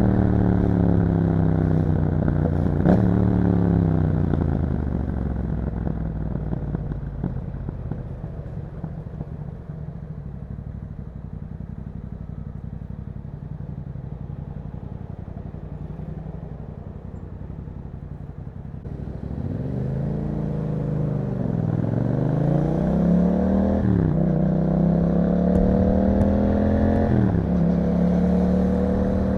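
Yamaha MT-07's parallel-twin engine through an Akrapovic exhaust, heard from the rider's position. It slows down with a short rev blip about three seconds in, runs quietly for a long stretch, then accelerates again with the pitch rising and briefly dropping at each upshift.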